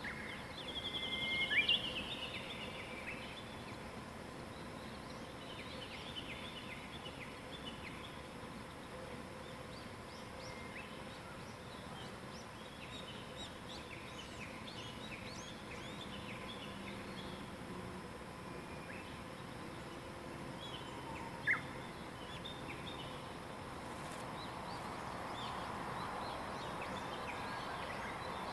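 Wild birds singing and chirping in mountain woodland, with many short calls throughout. A louder whistled song comes about a second in, and a single sharp call near three-quarters of the way through.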